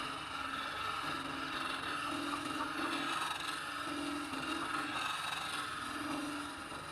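A wood lathe runs steadily while a turning tool cuts and scrapes the spinning palm wood, with a continuous rasping noise.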